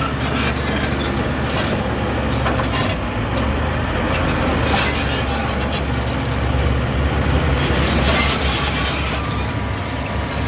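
Heavy diesel construction machinery running steadily, with scattered metallic clanks and knocks over the engine drone.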